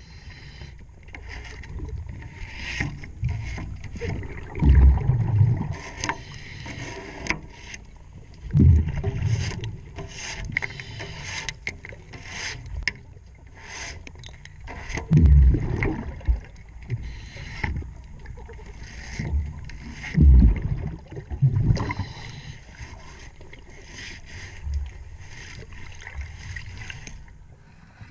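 Underwater sound of a diver on scuba: a loud gush of exhaled regulator bubbles every five seconds or so. Between the breaths come rapid clicks and scrapes of a cleaning tool working over the boat's propeller.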